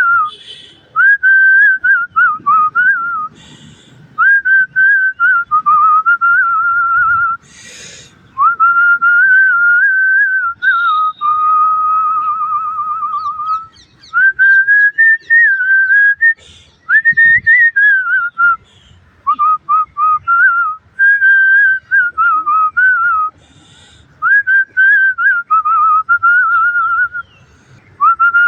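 A person whistling a tune in phrases of a few seconds with short breaks, the pitch stepping and gliding between notes, with one long wavering note about halfway through.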